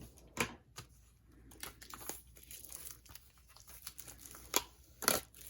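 Crinkling and rustling of an album's digipack packaging being opened by hand, with a few sharp taps and clicks, the loudest two near the end.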